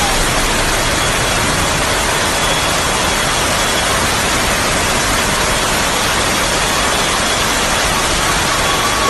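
Loud, steady rushing of water, an unbroken hiss-like noise with no letup, as from torrential rain or fast floodwater.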